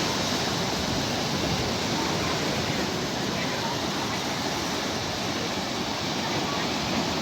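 Sea waves breaking and washing on the shore: a steady, unbroken roar of surf.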